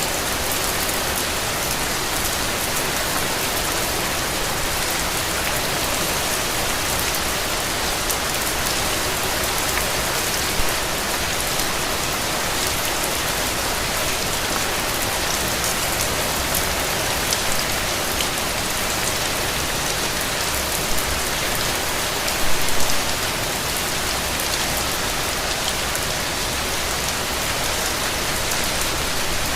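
Steady rain falling, a dense even hiss with scattered individual drop hits. Briefly a little louder about three-quarters of the way through.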